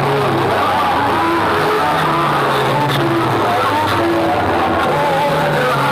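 Loud DJ music played through a competition sound-box loudspeaker system: a wandering melody over a steady bass line, at a constant level.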